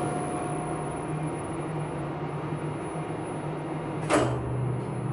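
Elevator hoist machinery in its machine room winding down: the running tones fade, leaving a low steady hum, and a single sharp clunk comes about four seconds in.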